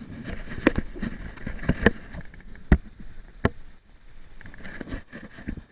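Sea water washing and sloshing among rocks, broken by several sharp knocks.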